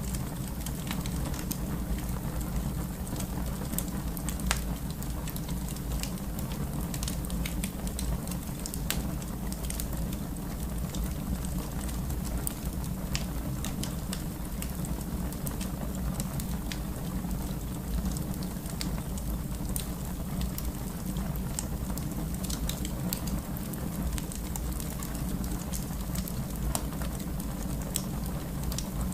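Fire burning in a fireplace: a steady low rush with scattered sharp crackles and pops throughout.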